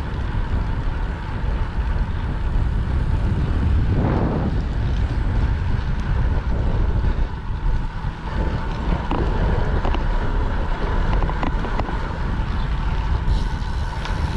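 Wind rushing over the microphone of a camera on a moving bicycle, a steady low rumble with road noise, and one brief louder rush about four seconds in.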